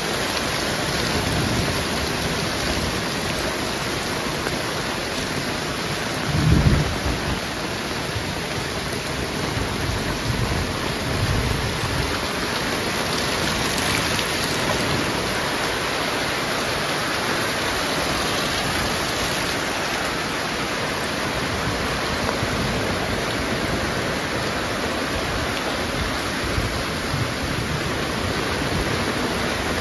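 Heavy rain falling steadily in a thunderstorm. A short, loud low rumble comes about six seconds in.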